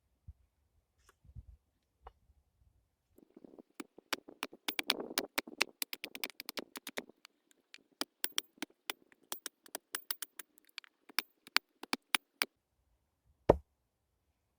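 Hand-built wooden lathe with a turning tool working a piece of wood: rapid, irregular sharp clicks and knocks over a rubbing noise for several seconds, then one loud knock near the end.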